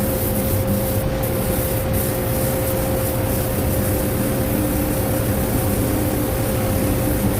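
A motor running steadily with a high, even whine over a strong hiss.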